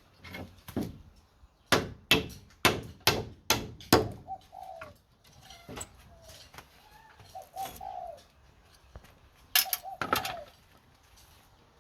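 A run of sharp knocks, about seven in a little over two seconds, followed by birds giving short, low calls that rise and fall in pitch. Two more knocks come together with a call near the end.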